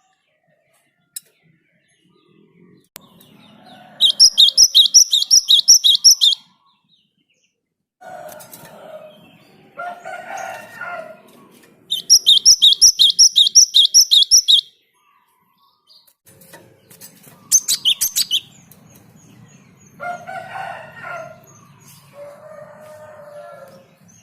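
Java sparrow (gelatik) singing: two long runs of rapid, evenly repeated high notes at about six a second, a third shorter run near the end, with lower-pitched calls from another bird in between.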